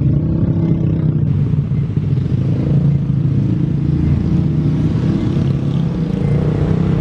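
Engines running steadily with a low, even hum; a wider hiss joins in about a second in.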